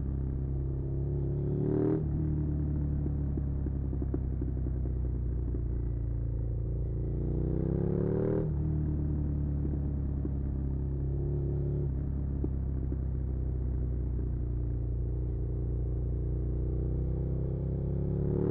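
Suzuki SV650's V-twin engine under way, its pitch climbing as it pulls and dropping sharply at gear changes about 2, 8 and 12 seconds in, then climbing again near the end.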